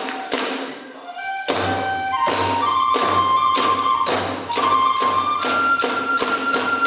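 Kagura hayashi accompaniment: a bamboo transverse flute (fue) plays a melody over steady drum beats and clashing small hand cymbals (tebyoshi). The beating drops away briefly about a second in, then the full ensemble comes back in.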